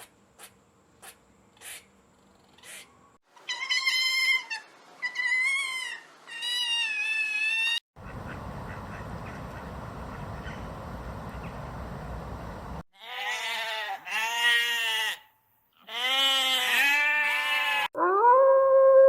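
A run of separate animal calls cut one after another. It starts with faint ticks, then three high drawn-out calls, then a few seconds of even hiss. Two pairs of wavering calls follow, and a long steady call begins near the end.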